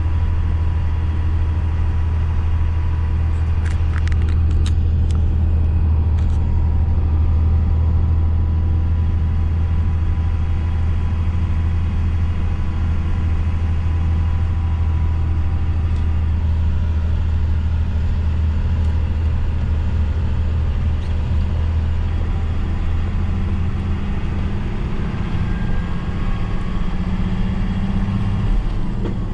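Truck's diesel engine running steadily under way, a strong low drone. There are a few short clicks about four to six seconds in. Near the end the engine note changes, the low drone easing and a higher tone coming up.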